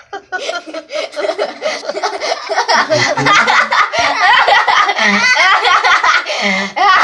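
Yellow-naped Amazon parrot calling and chattering loudly, with laughter mixed in.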